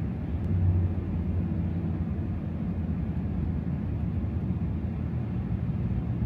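Supercharged 6.2-litre V8 of a 2024 Ram TRX pickup running at a steady cruise in snow mode: a steady low drone, a little louder about a second in.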